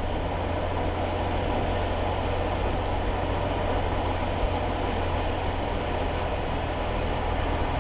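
Steady in-cabin driving noise of a kei car in the rain: a constant low engine hum under the hiss of tyres on the wet road.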